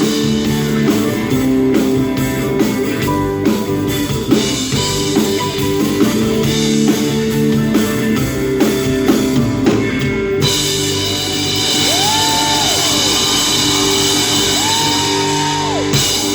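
Live rock band with drums and guitar playing a steady beat, then from about two-thirds of the way through holding a long final chord under ringing cymbals as the song ends.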